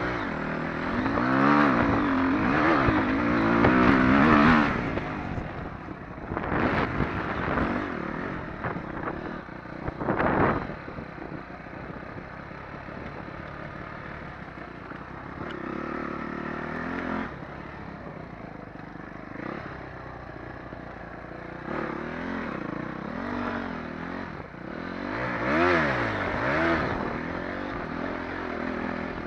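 Dirt bike engine being ridden off-road, revving up and down with the throttle, loudest in a burst near the start and again near the end, with a couple of sharp knocks and clatter from the bike over rough ground.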